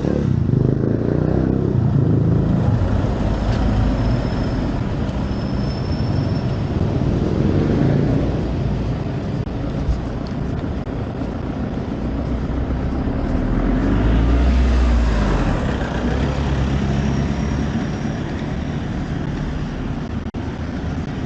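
Road traffic: vehicle engines running and passing in a continuous loud rumble, with one vehicle swelling louder about two-thirds of the way through.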